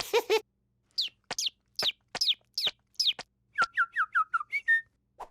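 Cartoon bird chirps: a run of quick, high, falling peeps, about two or three a second, then a faster run of lower falling chirps near the end.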